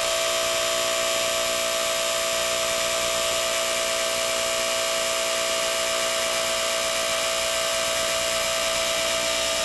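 Small electric motor of a Lionel 175 rocket launcher's gantry crane running, a loud steady high whine at one unchanging pitch as the gantry drives forward along its track.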